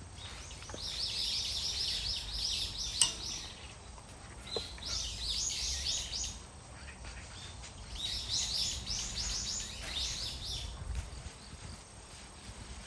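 A songbird singing three bouts of quick, high, repeated down-slurred notes, each bout about two seconds long, over low outdoor background noise. A single sharp click about three seconds in.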